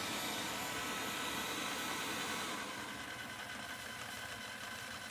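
Wyze robot vacuum running with a steady whirring hiss, which drops in level and loses some of its high hiss about two and a half seconds in.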